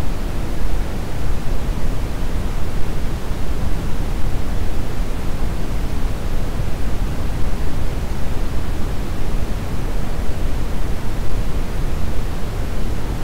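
Steady brown noise: a continuous, even hiss weighted heavily toward the low end, with no pitch or rhythm.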